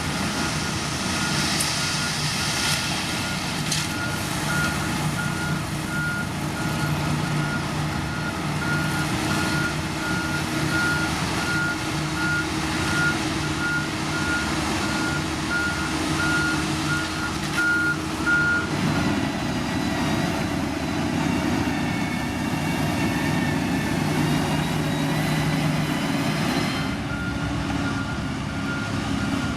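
Reversing alarm on a heavy construction machine beeping steadily, under two beeps a second, over the machine's engine running. The beeping stops about two-thirds of the way through and starts again near the end.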